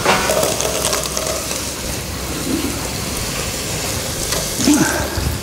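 Sliced carrots and well-browned onions frying in hot oil in a pot, a steady sizzle with fine crackling as the carrots are tipped in.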